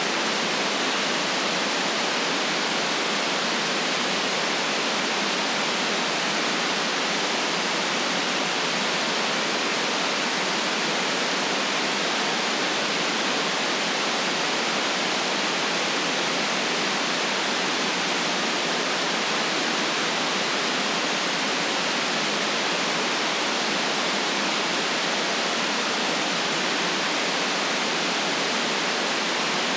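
Steady white noise: an even, unchanging hiss with no rhythm or events and little deep rumble.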